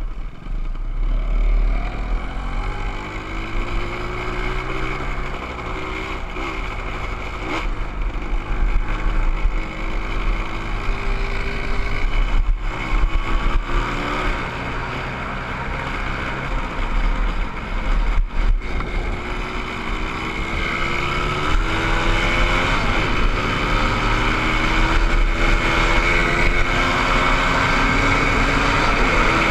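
Motorcycle engine running under way, its pitch rising and dropping back again and again as it accelerates through the gears, over a steady low rumble of wind on the microphone.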